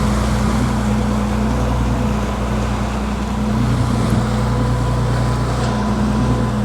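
Fishing boat's inboard engine running at a steady pace, a continuous low drone with wind and water noise over it.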